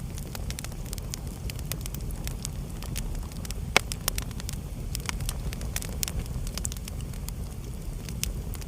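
Wood fire burning in a fireplace: many irregular crackles and snaps over a low steady rumble of flames, with one sharper pop near the middle.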